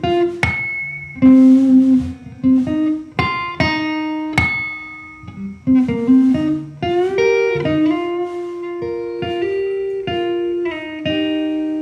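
Guitar music: plucked and strummed notes in a steady melody line.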